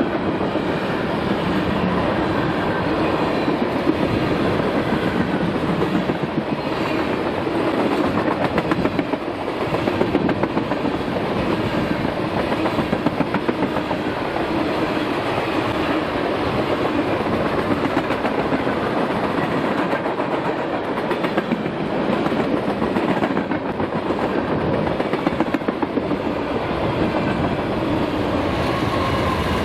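Freight train cars rolling past with a steady rumble, their wheels clicking over the rail joints in repeated sets.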